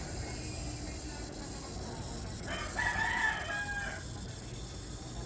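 A rooster crowing once, about a second and a half long, over steady low background noise.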